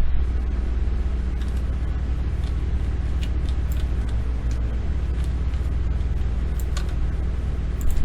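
Steady low hum with a faint background hiss, and a few scattered sharp clicks of the kind made by a computer mouse or keyboard.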